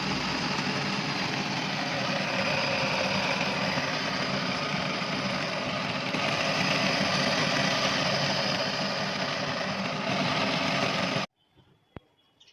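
Homemade electric scooter's dual 300 W electric motors running steadily, a loud even mechanical drone that cuts off suddenly near the end.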